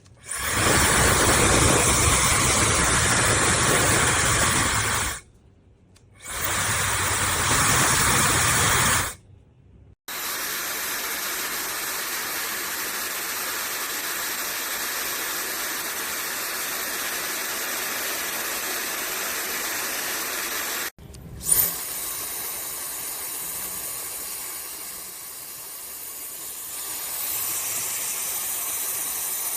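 High-speed hair dryer blowing air: two loud runs of a few seconds each with brief stops between, then a steady, quieter rush of air. A sharp click about two thirds of the way in is followed by a thin, high motor whine over the airflow, which grows louder again near the end.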